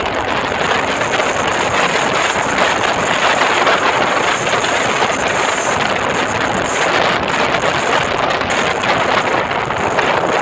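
Steady rush of wind on the microphone of a moving bike, with vehicle and road noise under it.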